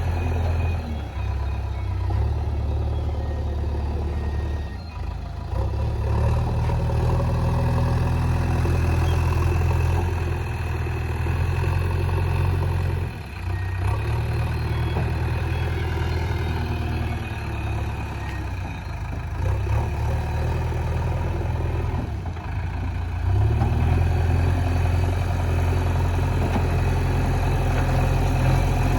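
JCB 3DX backhoe loader's diesel engine running steadily, its note dipping briefly three times and picking up again as the machine works.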